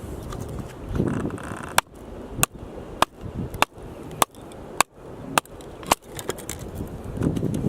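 Axe chopping firewood: a run of about eight sharp, evenly paced knocks, roughly two a second, then a few lighter taps near the end.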